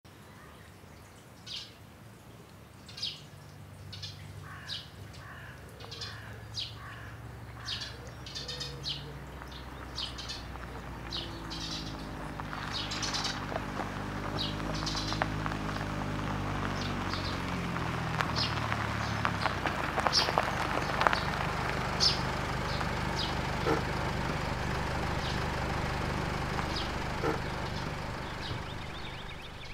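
Birds chirping, short calls repeated about once a second, over a low droning background that swells up about halfway through and eases off near the end.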